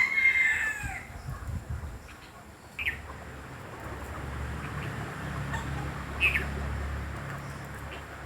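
A rooster's crow trailing off in the first second, then two short, sharp bird chirps a few seconds apart, over a low background rumble from about three seconds in.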